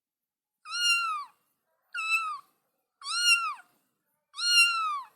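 Domestic cat meowing four times, about a second apart, each meow falling in pitch at its end.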